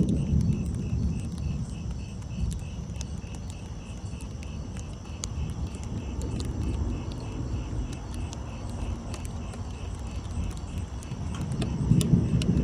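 Thunder rumbling low, loudest at the start and swelling again near the end, under a steady pulsing chirp of insects and scattered sharp ticks.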